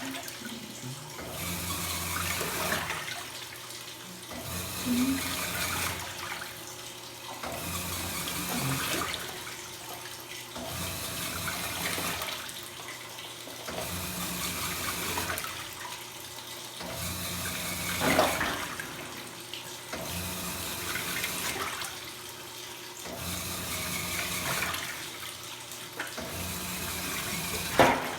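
Top-loading washing machines agitating a load in water: sloshing water, with a low motor hum that starts and stops roughly once a second as the agitator reverses. Two louder knocks, about two-thirds of the way through and near the end.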